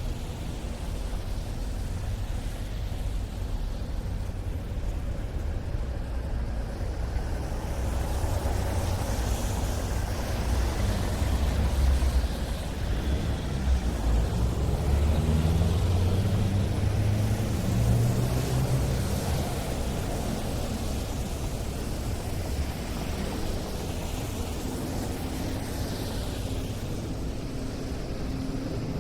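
City street traffic: cars passing with engines running and tyre noise, swelling as vehicles go by in the middle stretch, over a steady low rumble.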